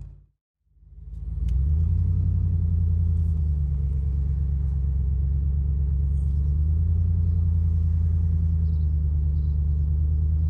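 First-generation Ford Raptor pickup's V8 engine and tyres: a steady low rumble of the truck driving along at an even pace. The sound drops out for a moment right at the start, then fades back in within about a second.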